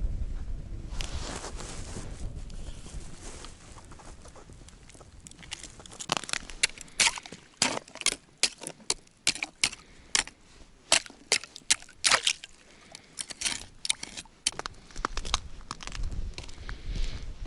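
Snow crunching underfoot: a run of crisp, irregular crunches, about two a second, starting about six seconds in and lasting roughly ten seconds, with wind rumble on the microphone at the start.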